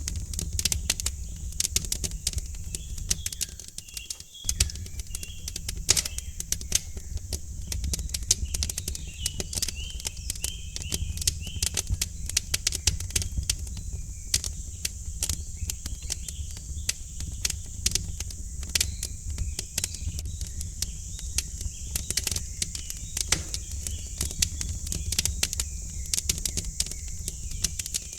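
Wood fire crackling in a fireplace: many quick irregular pops and snaps over a low steady rumble, with small birds chirping in the background.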